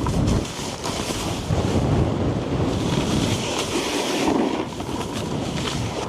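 Snowboard sliding and carving over snow, a continuous scraping rush mixed with heavy wind buffeting on the body-worn microphone.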